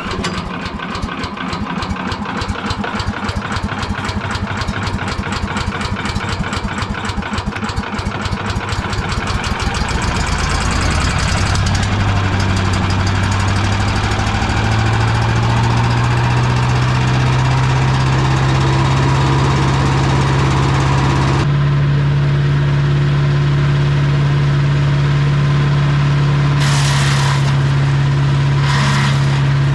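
Champion 338 cc single-cylinder gas engine on a wood chipper shredder, just pull-started on choke. It catches and runs unevenly at first, then speeds up into a steady run as it is brought up to high speed. Its tone changes abruptly about two-thirds of the way through, and a couple of brief hissy bursts come near the end.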